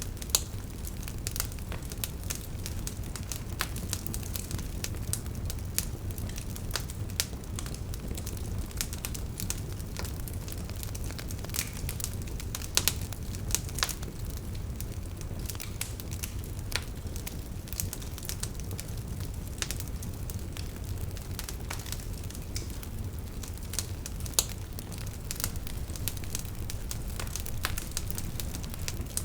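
Campfire crackling: irregular sharp pops and snaps of burning wood over a steady low rumble of flames, with a few louder pops here and there.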